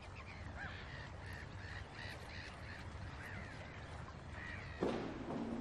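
Birds calling, many short chirps, over a low steady rumble; near the end a louder hiss with a steady low hum sets in.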